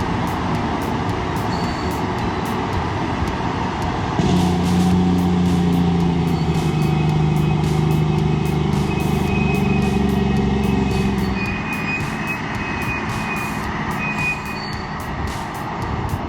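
Heavy machine's diesel engine running under load, getting louder and deeper from about four seconds in and easing back about seven seconds later.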